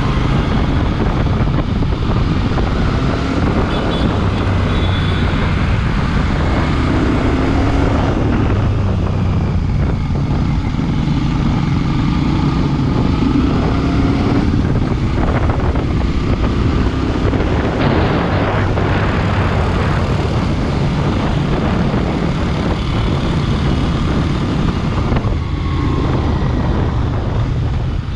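Royal Enfield Bear 650's 648 cc parallel-twin engine running steadily under way, heard from a camera mounted on the bike, with heavy wind noise across the microphone.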